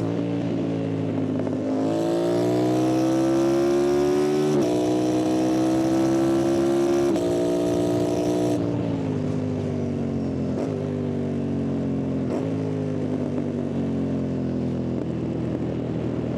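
Yamaha MT-07's parallel-twin engine pulling hard through two upshifts, its revs rising and then dropping sharply at each gear change. About halfway through the throttle comes off and the revs fall slowly, with two brief breaks along the way, under wind noise on the rider's microphone.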